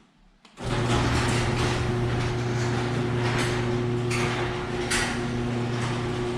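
Electric garage door opener switching on about half a second in and running steadily with a constant hum, the door rattling as it travels down its track. The door is being test-run after its lift cable was rewrapped on the drum.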